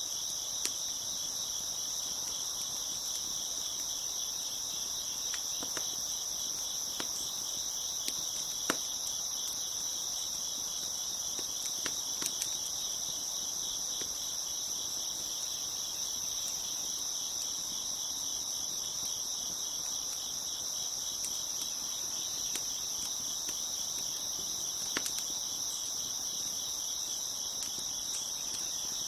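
Crickets chirping steadily in a dense, continuous chorus, with a few sharp pops and crackles from a wood fire scattered through it.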